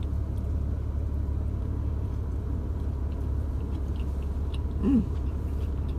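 Biting into and chewing a steak sandwich close to the microphone, with faint soft mouth clicks, over a steady low rumble in the car cabin. A brief hummed "mm" about five seconds in.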